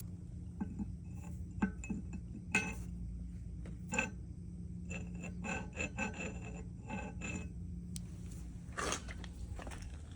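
Light metallic clinks, taps and a scrape of tools and parts being handled during a mini excavator repair, over a low steady hum. The taps are scattered, come in a quick run in the middle, and there is a longer scrape near the end.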